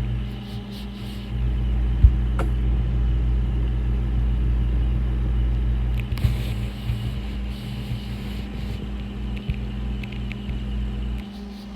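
Aquarium equipment running with a steady low motor hum, with a faint hiss of moving water and a couple of light clicks about two seconds in.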